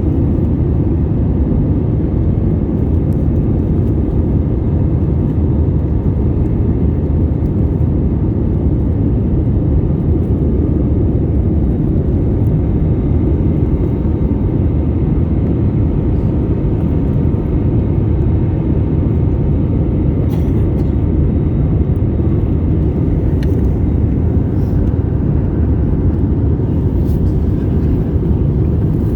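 Steady low rumble of a Boeing 787-8 airliner in flight, its engine and airflow noise heard from on board, unchanging in level.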